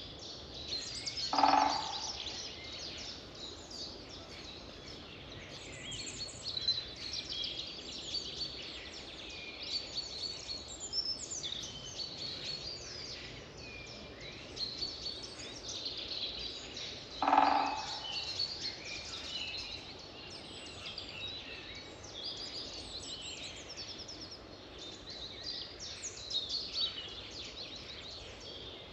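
A dawn-chorus-like mix of many small birds chirping and trilling in quick, high notes. Twice, about a second and a half in and again some sixteen seconds later, a single louder, lower call stands out.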